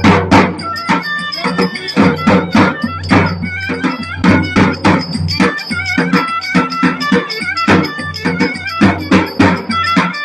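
Traditional Turkish folk music: a steady, quick drum beat under a string melody.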